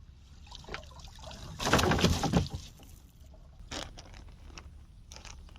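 A splash of water lasting just under a second, about two seconds in, followed by a few faint knocks.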